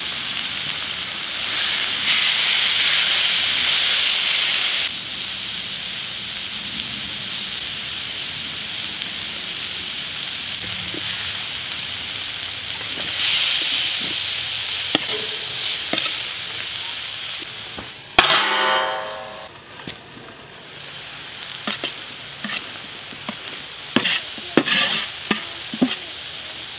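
Sliced steak, onions and bell peppers sizzling on a steel cooking disc made from a 55-gallon drum, stirred with a metal spatula. The sizzle swells and eases as the food is turned; one loud scrape comes a little past the middle, and near the end the spatula clicks and scrapes against the steel several times.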